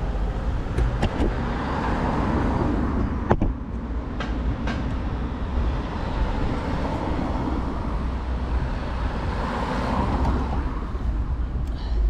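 Road traffic and riding noise heard from a bicycle, with a steady low rumble and vehicles swelling past twice, about two seconds in and again near ten seconds. A sharp click comes about three seconds in.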